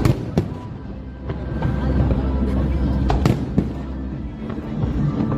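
Fireworks bursting overhead: sharp bangs, two close together near the start and two more about three seconds in, over a low rumble and music playing through loudspeakers.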